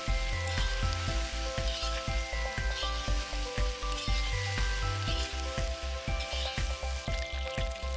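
Sliced button mushrooms sizzling as they fry in a kazan, turned with a metal skimmer. Background music with a steady bass beat plays underneath.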